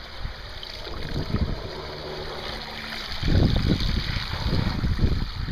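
Wind buffeting the microphone in gusts, growing stronger about three seconds in. A low steady hum sounds underneath for a second or so midway.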